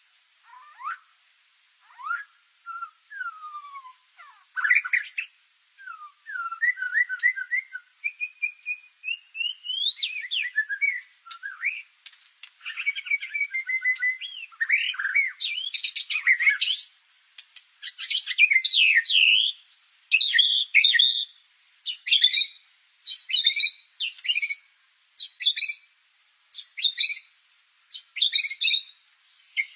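White-rumped shama (murai batu) singing: varied clear whistles and sliding notes at first, then from about halfway a run of short, rapid, busy phrases repeated roughly once a second.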